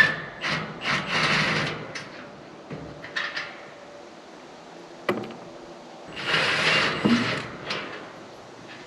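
Metal parts and hand tools clanking and scraping as a truck's exhaust heat shield and its fasteners are worked loose: a few sharp knocks and several scraping, rattling stretches of about a second each.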